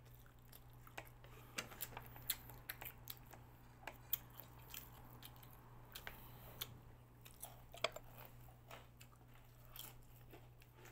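Close-up chewing and biting of crispy deep-fried chicken: irregular soft crunches and wet mouth clicks, several a second at times. A steady low hum runs underneath.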